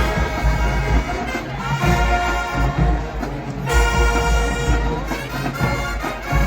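Marching band playing: brass sustaining loud held chords over heavy bass drum and percussion hits, with a fresh loud chord entering near the middle.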